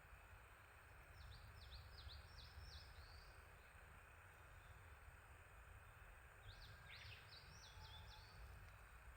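A small songbird singing faintly: two quick phrases of repeated falling notes, one about a second in and another past the middle, over a steady low background rumble.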